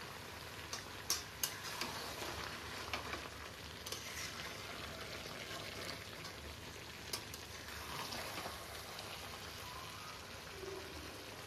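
Chicken and onion masala frying in a pan with a low, steady sizzle while it is stirred to keep it from sticking. A few sharp clicks of the stirring utensil against the pan come through.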